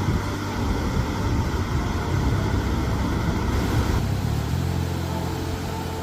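Steady low rushing rumble of Bow Falls, a waterfall on the Bow River, with soft sustained background-music notes that change about four and a half seconds in.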